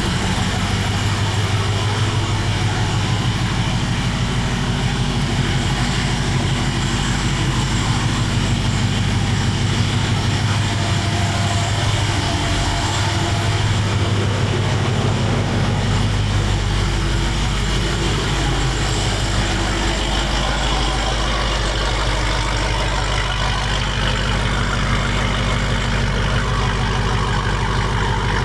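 A car engine running steadily at a low, even idle.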